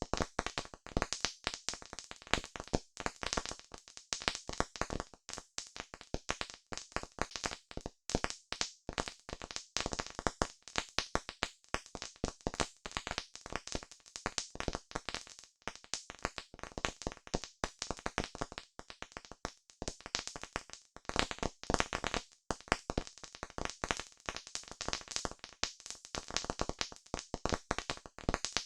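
Campfire crackling: wood burning with a dense, irregular stream of sharp pops and snaps.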